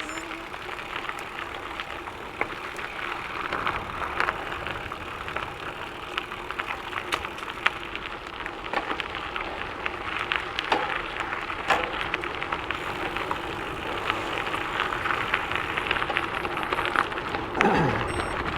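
A gravel bike's tyres rolling fast downhill, with a steady rush and scattered sharp clicks and rattles from the bike and the road surface. A short falling tone sounds near the end.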